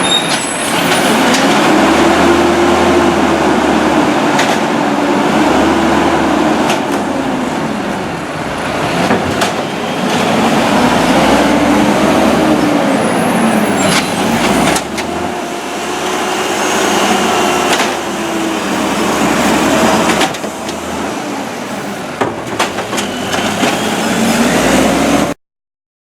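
Peterbilt garbage truck's engine being revved up and down by hand, rising and falling in long swells about five times, to drive the automated side-loader arm's hydraulics. There are occasional sharp knocks and clanks.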